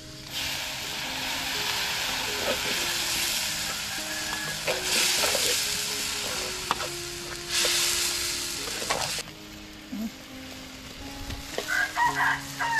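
Lemongrass paste frying in a hot steel wok over a wood fire: a steady sizzle with a metal spatula scraping and stirring. The sizzle surges louder twice and cuts off about nine seconds in. Near the end, snails clatter into the wok from a basket.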